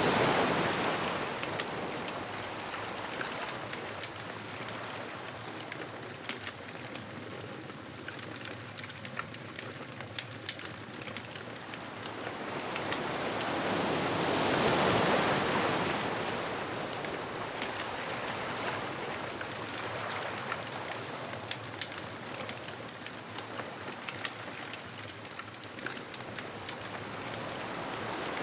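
Ocean waves breaking and washing up a beach, one wave surging in at the start and another about halfway through, with small crackles and pops from a bonfire throughout.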